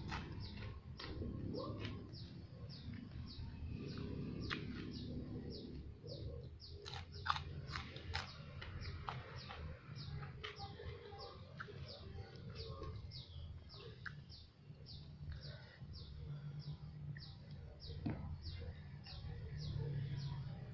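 A small bird chirping over and over, short falling notes about twice a second, with quiet chewing and a few sharp clicks of eating in between.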